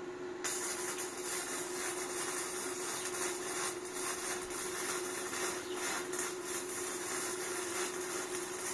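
A steady hiss that starts suddenly about half a second in and holds, over a constant mid-pitched hum.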